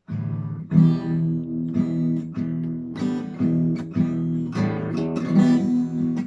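Acoustic guitar strummed in steady chords, about two strokes a second, starting suddenly out of silence as the introduction to a song.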